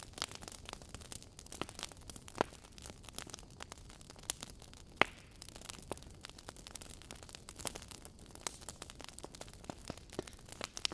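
Wood fire burning in a fireplace: logs crackling with irregular sharp pops over a soft hiss, one louder pop about five seconds in.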